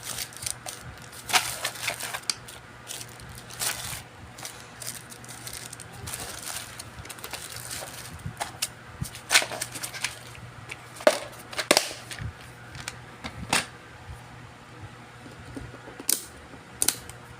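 Irregular light clicks and knocks of small tools and parts being handled on a repair bench, over a steady low hum.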